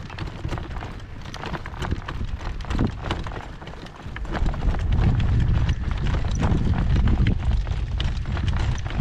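Horse's hooves clip-clopping steadily over the ground. About halfway through, strong wind starts buffeting the microphone with a loud low rumble.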